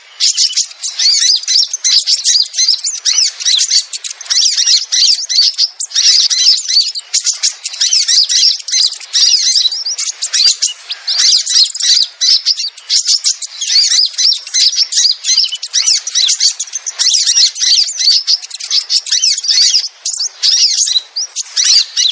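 Sogon (crimson sunbird) calls: fast, high-pitched chirping and trilling, several overlapping birds, one after another without a break. This is the call used as a lure to draw sogon down.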